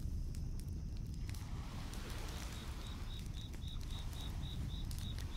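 A cricket chirping at night in an even pulse of about four high chirps a second. It falls silent for the first couple of seconds, then starts again. Beneath it are the low rumble and occasional light crackles of a campfire.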